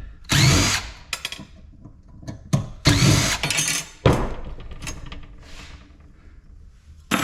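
A power drill running in two short bursts of about a second each, backing out screws while an appliance is taken apart. A sharp knock of metal parts follows each run.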